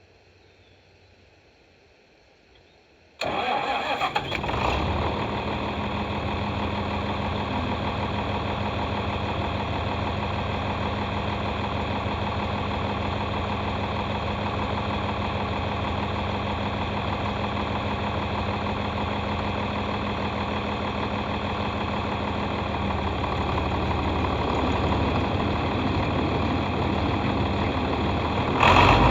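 Tractor diesel engine running steadily, cutting in suddenly about three seconds in after near silence; it grows louder and deeper over the last few seconds.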